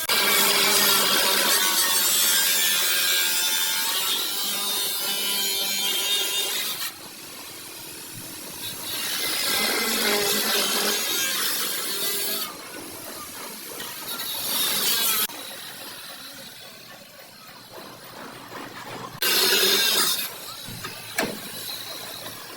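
Bodywork tool rasping against the car body in four bursts, the first about seven seconds long and the last about a second.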